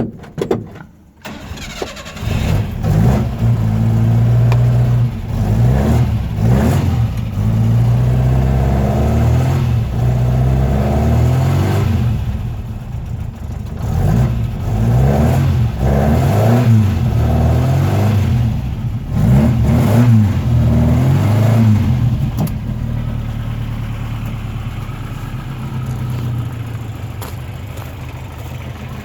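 Hillman Avenger rally car's four-cylinder engine starting about a second in, then blipped repeatedly with rising and falling revs before settling to a steady idle for the last several seconds. The exhaust has rotted out.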